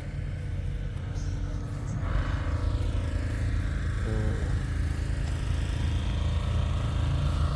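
Vehicle engine running steadily with music playing, heavy in the low bass.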